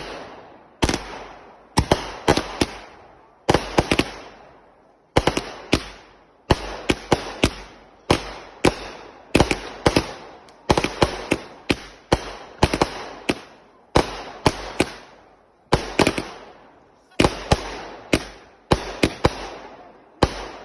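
Multi-shot consumer firework cake going off: a long run of loud, sharp bangs, often two or three in quick succession, each trailed by a short echoing fade. The run stops near the end.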